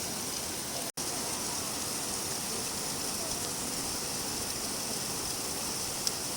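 Steady rain falling, an even hiss of drops. The sound cuts out for an instant about a second in.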